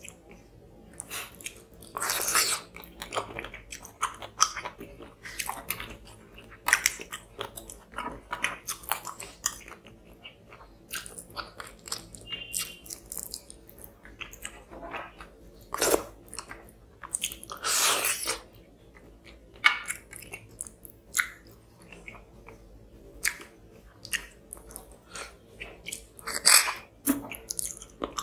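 Close-miked chewing and lip-smacking of a person eating tilapia fish curry with rice by hand. Irregular wet smacks and clicks, with a few louder bursts.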